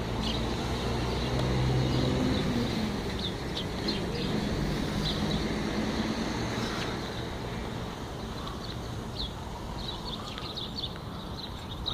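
Small birds chirping again and again in short, high notes over the low rumble of a vehicle engine or traffic. The rumble is strongest in the first few seconds and eases off after about six seconds.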